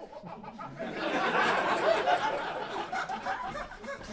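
Live audience laughing, swelling about a second in and tapering off near the end.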